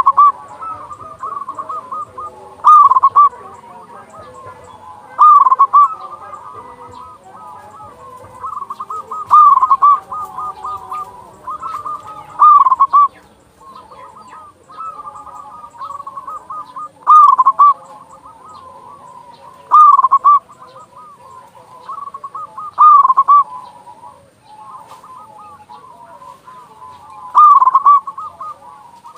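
Zebra doves (perkutut) cooing: a loud, rolling coo phrase comes every few seconds, with quieter cooing from other birds in between.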